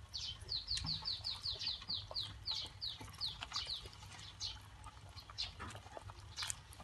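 Bird chirping: a quick run of short, falling chirps, about five a second for the first two seconds or so, then scattered single chirps, over a low steady rumble.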